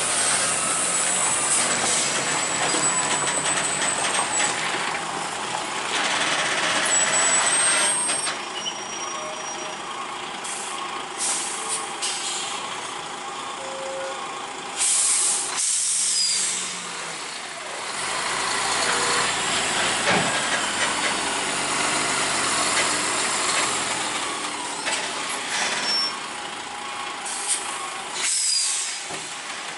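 Heavy semi-trailer truck running, with several short air-brake hisses along the way.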